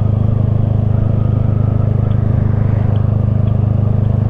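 Honda Grom's single-cylinder four-stroke engine running at a steady speed while riding, its low drone holding an even pitch and level.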